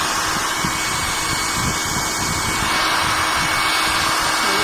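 Philips HP8100 hair dryer running steadily on its strong second speed setting, blowing hot air with a steady rush and a faint whine through it.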